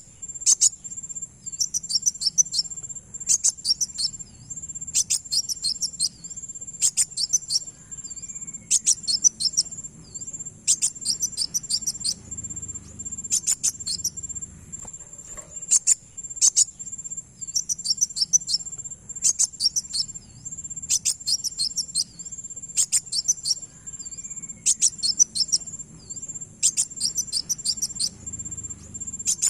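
Kolibri wulung (a sunbird) calling: short bursts of rapid, high twittering notes, repeated about every two seconds as a looped lure call. A steady high-pitched tone, like an insect's, runs underneath.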